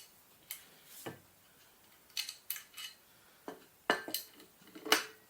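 Irregular metallic clinks and taps, about nine of them, as tools and bolts knock against the metal mountainboard truck while it is being lined up for reassembly.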